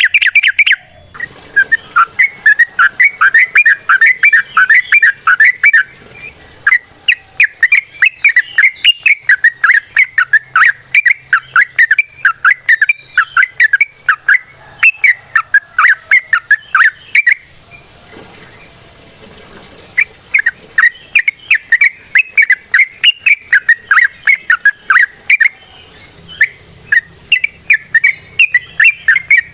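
Yellow-vented bulbul (trucukan) singing long runs of rapid chirping notes, several a second, pausing for a couple of seconds a little past halfway before carrying on.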